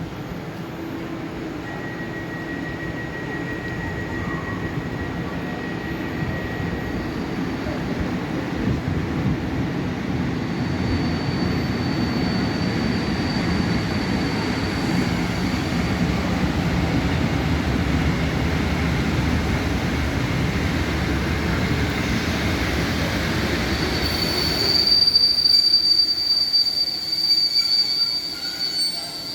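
Passenger train running past on rails, its rumble building up, with a thin high-pitched wheel squeal that comes and goes and is strongest near the end.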